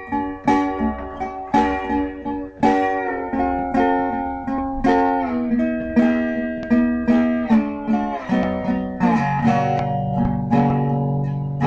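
Music: an acoustic guitar playing picked and strummed chords.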